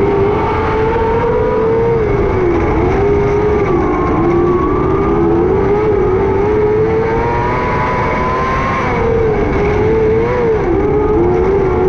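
600cc micro sprint car's motorcycle engine running at high revs at racing speed, its pitch dipping and recovering a few times as the throttle is lifted and reapplied.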